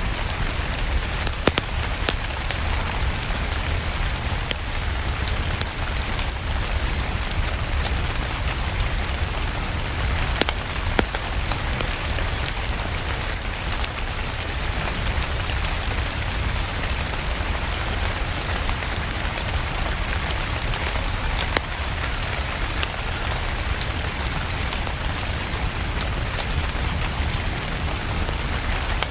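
Steady rain with a low rumble underneath, dotted with scattered sharp pops and crackles from a burning wood fire.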